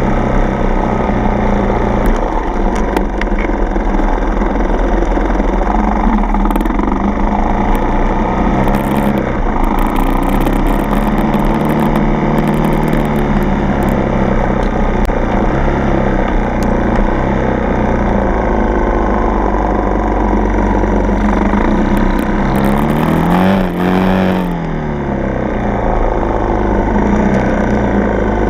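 Four-stroke dirt bike engine running under way, its pitch rising and falling as the throttle is worked over the trail. Near the end it revs up sharply and drops back.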